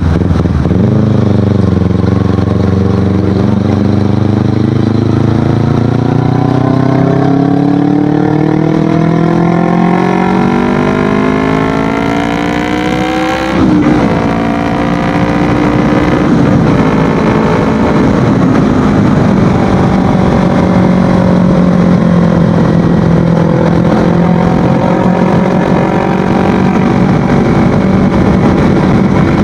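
Kawasaki Ninja 250FI parallel-twin engine running through an Akrapovic aftermarket exhaust under way, its pitch climbing steadily under acceleration for about twelve seconds. Around the middle the pitch drops suddenly, as at an upshift, and the engine then runs at a lower, fairly steady pitch while cruising.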